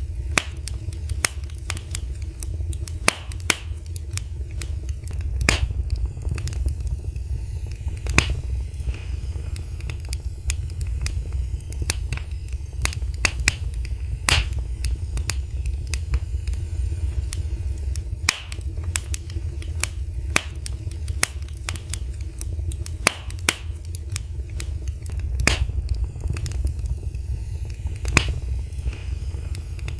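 Wood fire crackling in a fireplace: irregular sharp pops and snaps, several a second, some louder than others, over a steady low rumble of the flames.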